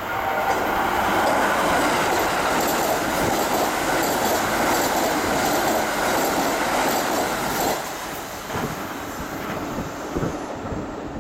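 Kintetsu limited express electric train passing through a station at speed without stopping: a loud rush of wheels on rail that swells at the start and holds for about seven and a half seconds. It then drops away sharply as the last car clears, with a few low knocks after that.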